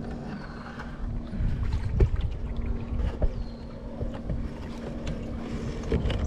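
Small fishing boat on the water: a steady low hum, with heavy knocks and bumps on the hull about two seconds in and again near the end.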